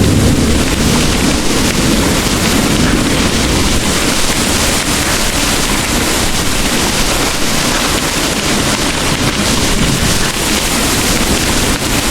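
Heavy rain falling in a steady, dense hiss. A low rumble of distant thunder dies away in the first second or two.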